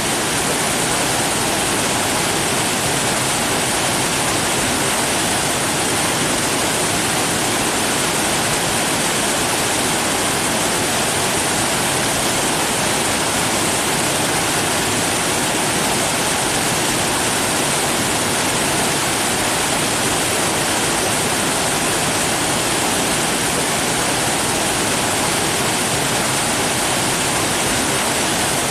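Steady, unbroken rushing of flowing water, with a bright hiss in the highs.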